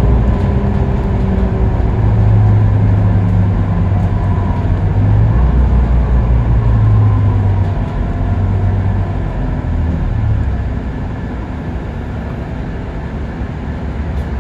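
Scania K310UB city bus's diesel engine running at road speed, a low steady drone that steps in pitch a few times and gets quieter over the last few seconds.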